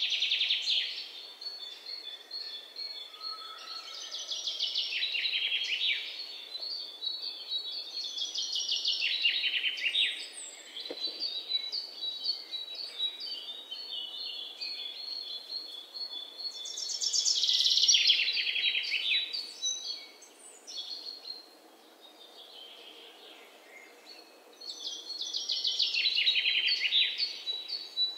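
Songbirds singing: fast trilled phrases that drop in pitch every few seconds, with softer chirps and twitters between them.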